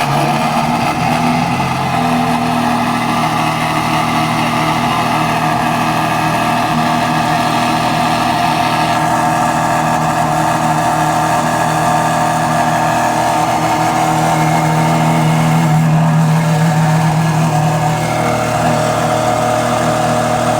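Ferrari Enzo's 6.0-litre V12 engine running steadily at an unchanging pitch, with no revving sweeps.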